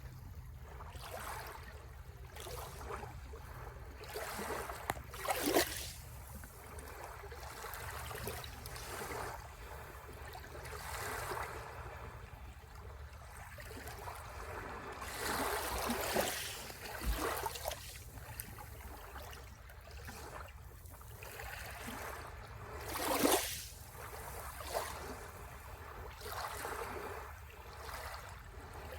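Sea waves washing onto the shore, a steady rush with a low rumble beneath. The wash swells and falls back, with the loudest surges about five seconds in and again a little over three quarters of the way through.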